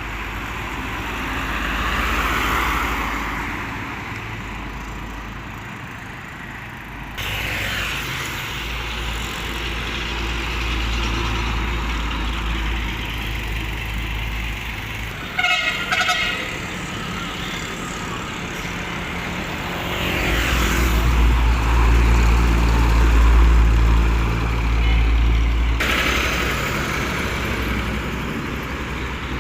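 Road traffic with heavy vehicles, most likely trucks, passing in turn, their engine rumble and tyre noise swelling and fading. A brief horn sounds about halfway through.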